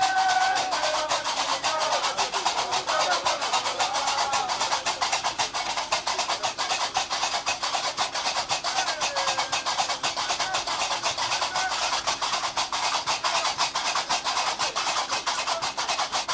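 Gnawa ritual music: qraqeb iron castanets clatter in a fast, steady rhythm, with a voice singing over them in the first few seconds.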